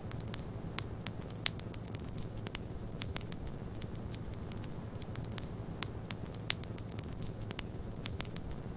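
Wood fire in a fireplace crackling: many irregular sharp pops, a few louder ones, over a steady low rumble.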